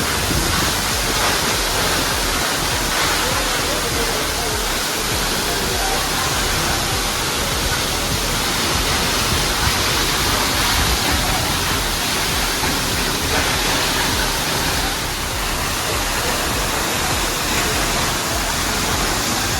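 Steady roar of a large waterfall, heavy water pouring and crashing down without letup.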